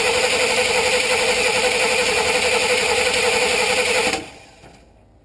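1988 Chevrolet 2500 pickup's 5.7-litre throttle-body-injected V8 running at a steady idle, then stopping abruptly about four seconds in. The truck will not start without a fuel prime, a fault the owner traced to a failed ignition (spark) module.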